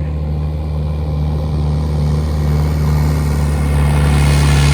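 Boat's outboard motors droning steadily as the boat approaches, growing louder, with a rising hiss of rushing water near the end.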